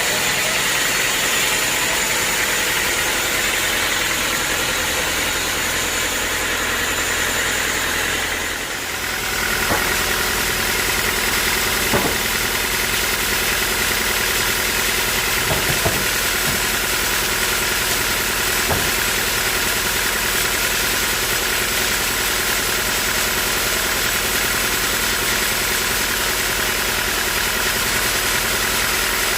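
Sawmill engine and saw running steadily, dipping briefly about a third of the way in, with a few sharp knocks after the dip.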